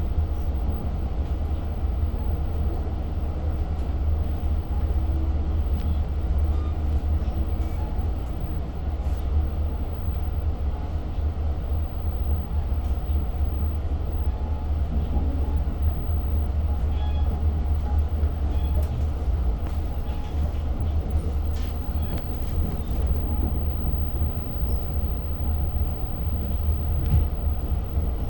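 Steady low rumble of a Long Island Rail Road diesel train, heard from inside a passenger coach, with a scattering of light clicks and knocks in the second half.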